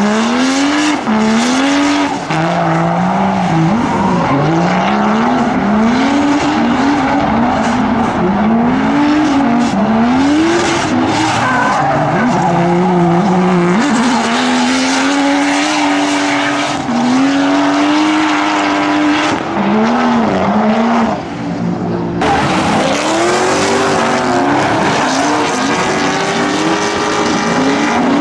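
Drift car engines revving up and falling back again and again as the cars slide, with tyre squeal. The sound changes abruptly about 22 seconds in.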